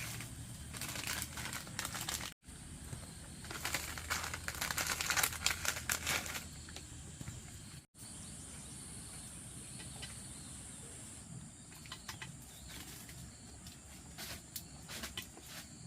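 Rustling and crackling, loudest in a bout a few seconds in, over a steady high insect buzz; the sound cuts out abruptly twice.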